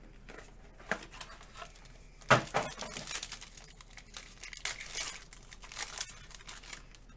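Crinkling and rustling of plastic wrapping and card sleeves being handled while trading cards are unpacked, in irregular bursts, the loudest about two seconds in.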